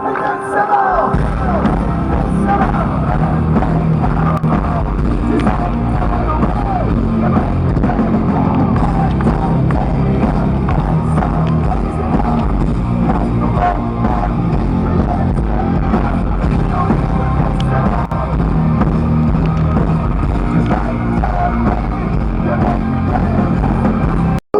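Loud rock music with a heavy bass, with crowd noise mixed in; it comes in about a second in and cuts off suddenly near the end.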